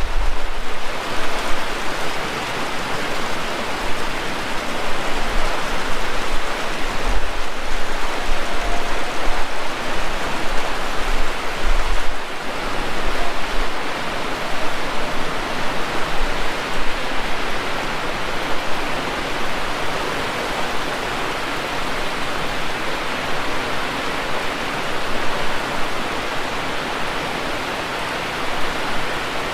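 Heavy rain falling as a dense, steady hiss, with a few short low rumbles in the first half.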